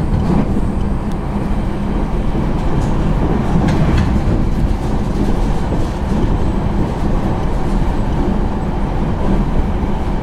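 Passenger train in motion heard from inside the carriage: a steady, even rumble of running noise, with a few faint clicks.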